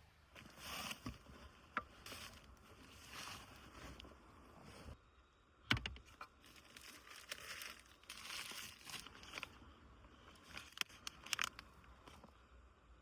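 Crinkling and rustling of something being handled, in repeated bursts with small clicks, and one sharp knock a little before six seconds in.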